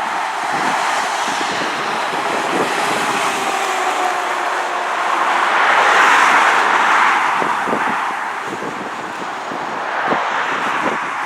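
A road vehicle driving past, its tyre and engine noise swelling to a peak about halfway through and then fading, with a second, smaller pass near the end.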